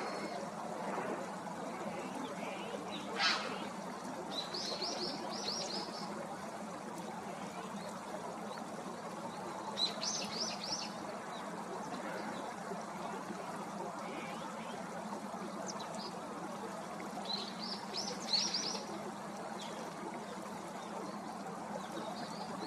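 Small birds calling over a steady background hiss: a short sharp call about three seconds in, then three quick runs of high chirping notes, about five, ten and eighteen seconds in.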